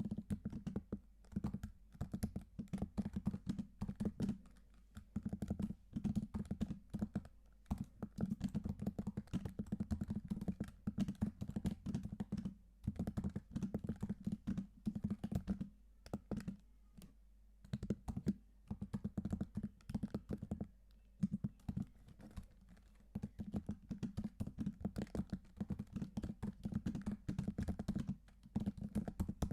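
Typing on a computer keyboard: fast runs of keystroke clicks in bursts, broken now and then by short pauses.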